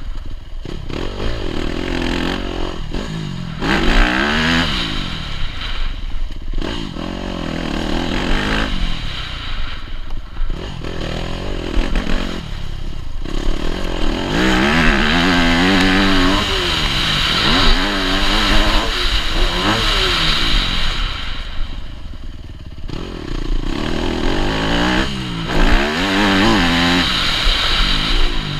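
Yamaha YZ250F four-stroke single-cylinder motocross engine, heard close up, revving up and dropping back again and again as the throttle is opened and shut. Its pitch climbs and falls in repeated sweeps, with a few short lulls.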